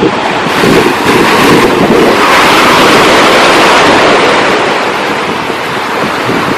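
Ocean surf: a wave's rush swells about half a second in and eases off toward the end. Wind buffets the microphone throughout.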